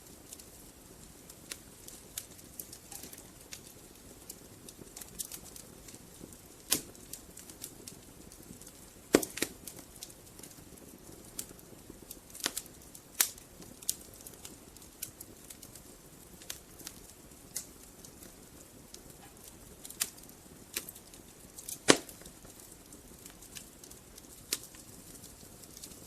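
Wood fire burning in a fireplace: irregular sharp crackles and pops from the logs over a soft steady hiss, with a few louder pops, the loudest near the end.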